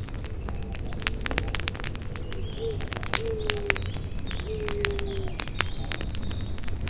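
Campfire crackling: a constant stream of sharp pops and snaps over a low rumble of burning wood. A bird gives short, low, slightly falling coos about three times in the middle, with faint high chirps now and then.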